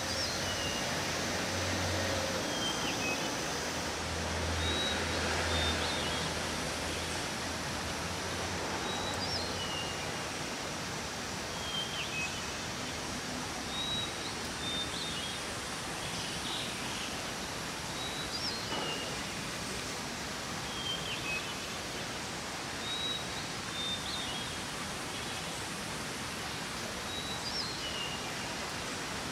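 Steady outdoor background hiss with a bird repeating short, high chirps every second or two.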